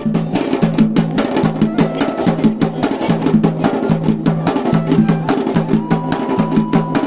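Traditional Garhwali dhol and damau drumming playing a fast, dense rhythm for a mandan, with a thin held high note joining near the end.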